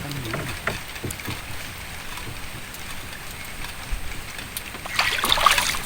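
Water noise with scattered light knocks and clicks, and a louder noisy rush about five seconds in.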